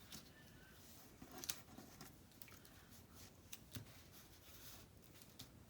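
Faint handling of paper cut-outs on a work surface: soft rustles and a few light clicks and taps, scattered and irregular.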